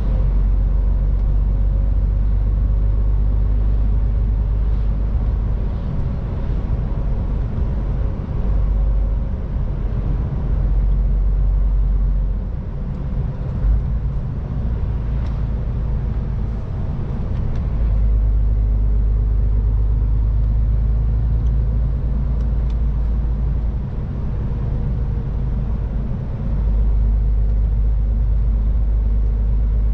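MAN TGX 18.510 semi-truck's straight-six diesel engine running as the truck drives along, heard as a low, steady drone mixed with tyre and road noise.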